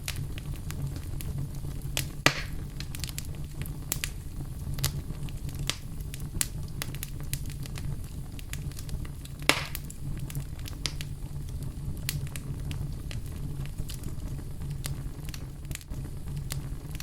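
Fireplace fire crackling: a steady low rumble of flames under many small crackles, with two louder pops, one about two seconds in and one about halfway through.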